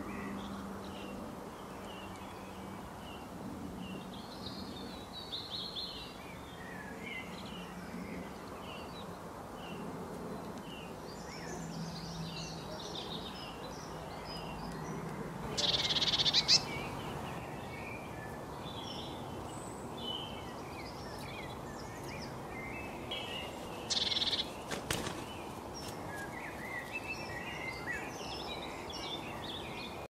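Wild birds chirping and tweeting: many short high calls over a steady low background noise, with two louder bursts of calls, about halfway and about three-quarters of the way through.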